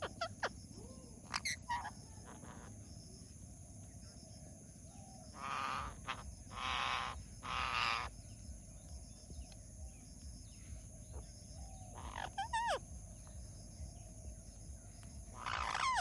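Indian ringneck parrot calling: a few short whistled notes that slide down in pitch, and in the middle three harsh, raspy squawks about a second apart.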